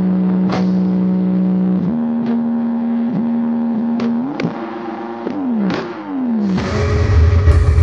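Electronic music played loud through the Joker Audio sound system: held buzzy synth notes that step between pitches with sharp clicks between them and slide downward twice, then deep heavy bass comes in near the end.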